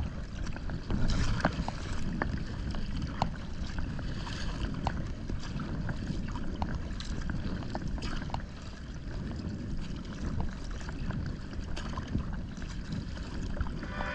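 Wind rumbling on the microphone over water lapping and splashing against a sea kayak, with many small sharp drips and clicks throughout.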